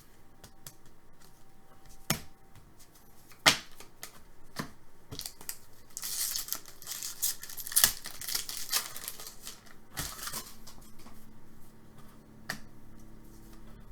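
Trading-card packs and cards being handled: scattered sharp snaps and clicks of cards, with a few seconds of crinkling and tearing of a pack wrapper near the middle.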